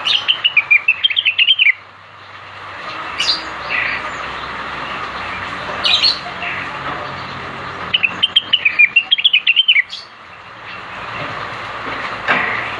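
Blue-winged leafbird (cucak wilis) singing: two quick runs of chirping notes, each about two seconds long, one at the start and one about eight seconds in, with single short sharp calls between them, over a steady background hiss. This is lure song for stirring a reluctant caged cucak wilis into singing.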